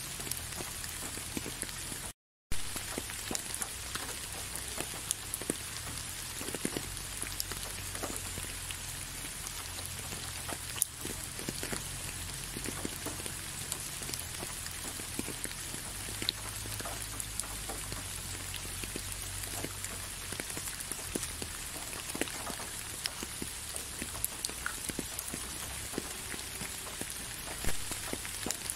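Steady rain with many separate drops ticking. The sound cuts out completely for a moment about two seconds in, coming back with a sharp tick.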